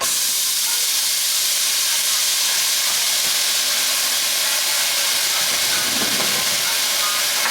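Ground turkey sizzling as it browns in a hot pan: a steady hiss that starts suddenly and holds at an even level.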